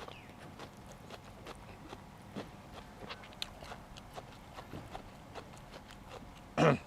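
Close-up mouth sounds of a man eating oxtail soup: wet chewing, with many small irregular clicks and smacks. Near the end comes one short, loud vocal grunt.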